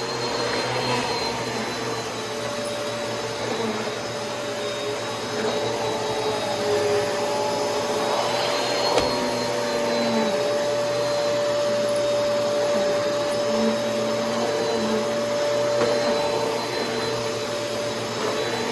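Kenmore Progressive canister vacuum with a power nozzle running steadily, its motor whine wavering slightly in pitch as the nozzle is pushed across the floor. A single brief knock about nine seconds in.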